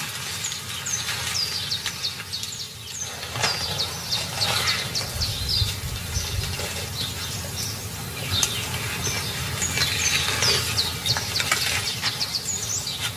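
Birds chirping over and over in short, downward-sliding notes, over a steady low background noise.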